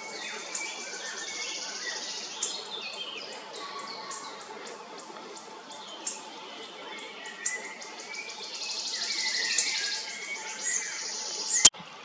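Small woodland birds singing and calling: dense, high, rapidly repeated chirps and trills, growing louder for a stretch over the last few seconds. A single sharp click comes just before the end.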